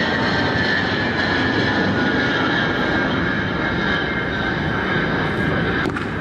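Jet engines of a large military transport aircraft running steadily: a dense, even rush of noise with high whining tones from the turbofans. There is a brief click near the end.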